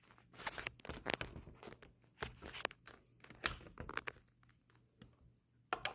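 Close handling noise: a run of irregular short rustles, scrapes and clicks, as a phone and a tape measure are handled at a windowsill.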